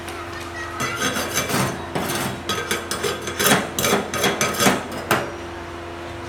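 A hand tool scraping rough metal: about a dozen uneven rasping strokes that come faster and louder toward the end, then stop about a second before the close. A steady hum runs underneath.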